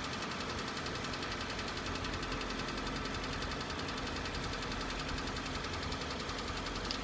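Hyundai ix35 2.0-litre, 150 hp engine running with a steady, fast knocking from inside the engine.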